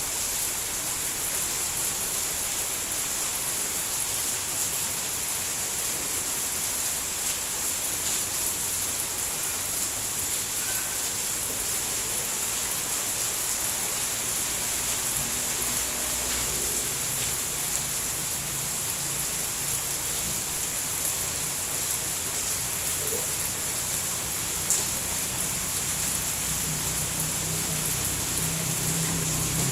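Steady rain falling, an even hiss. About halfway in, a low hum comes in under the rain and grows louder toward the end, with a single sharp tick a few seconds before the end.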